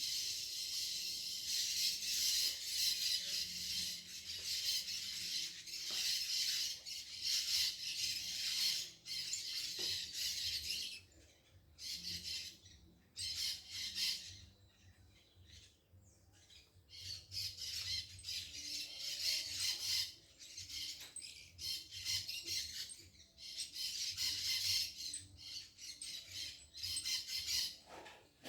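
Birds giving harsh, rapid squawking calls that run together in long raspy stretches. They break off into scattered short calls around the middle, then come back strongly.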